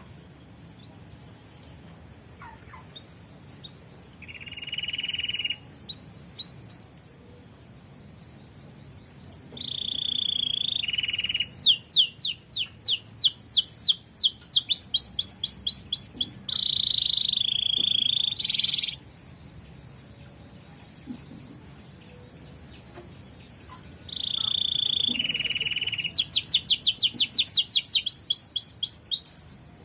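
Domestic canary singing in bouts: buzzy held notes and fast trills of repeated notes that grow louder, with pauses of a few seconds between phrases.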